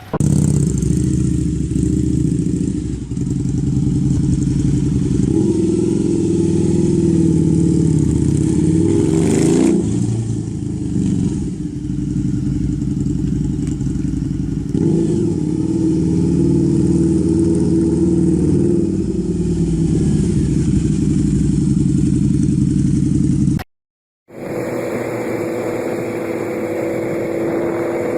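Big motorcycle engine of a custom trike running, a deep, steady note with small swells in revs. Near the end it cuts out for a moment, and a different engine sound follows.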